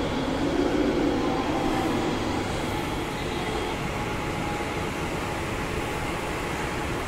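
Mumbai suburban local train (electric multiple unit) at the platform, a steady rumble that is a little louder for the first two seconds or so and then settles.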